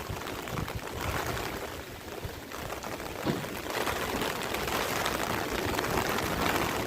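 Steady hiss of rushing water, with its strength shifting a few times.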